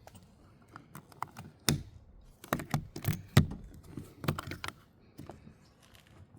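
Irregular clicks, clinks and knocks of a metal carabiner and bungee cord being hooked onto a tarp, with handling bumps; the sharpest knock comes about halfway through.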